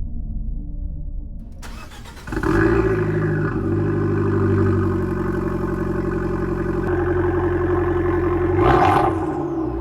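Abarth 500/595's turbocharged four-cylinder engine running through its exhaust. A low rumble becomes louder about two seconds in and settles into a steady idle, with a short blip of revs near the end.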